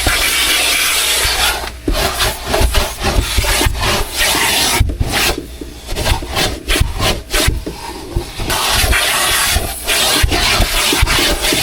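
Car-wash vacuum hose sucking, its nozzle scraping and rubbing over the car's carpet and upholstery. The hiss swells and drops irregularly as the nozzle is pushed along and lifted.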